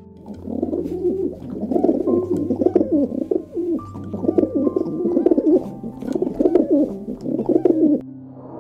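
Doves cooing in a run of repeated low, wavering phrases that stop about a second before the end, with soft background music holding steady notes underneath.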